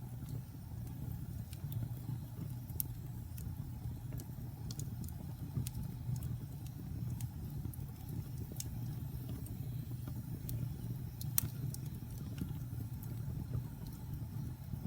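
Wood fire burning in a fireplace: irregular crackles and pops over a steady low rumble, with one sharper pop a little past the middle.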